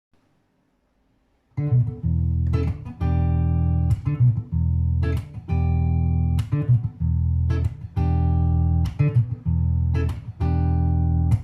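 Fingerstyle guitar intro starting about a second and a half in: a Godin Multiac Jazz guitar through a Boss Poly Octave pedal, which drops the two lowest strings an octave into a deep, sustained bass line under plucked chords and notes, in a steady rhythm. Amplified through a Vypyr amp in acoustic mode.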